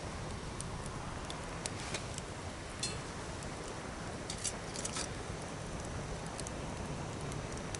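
Wood campfire burning with a steady hiss and scattered sharp pops and snaps, a few louder ones about halfway through.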